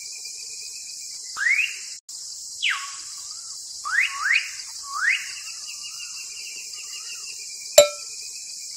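Birds calling: short whistled notes sweeping up and down, repeated about every second, with some warbling between them, over a steady high hiss. A single sharp click near the end.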